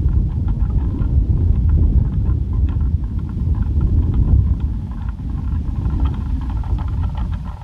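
Strong wind buffeting the microphone as a loud, gusting low rumble, with a plastic pinwheel spinning and rattling faintly behind it. The rumble eases off at the very end.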